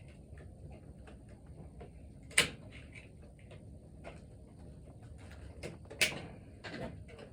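Scattered light clicks and taps of hand tools working at an engine valve, its spring and keeper, with two sharper knocks about two and a half and six seconds in.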